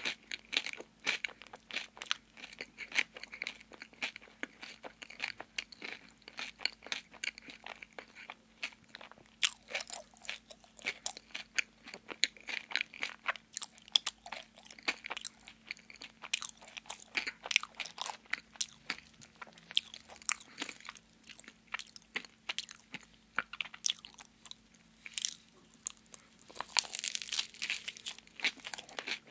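Close-miked chewing and crunching of a chocolate-glazed donut with a crunchy topping: irregular wet crunches and mouth sounds, with a fresh bite near the end.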